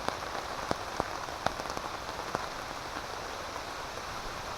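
Steady rain falling, with a few single heavier drops ticking sharply in the first half.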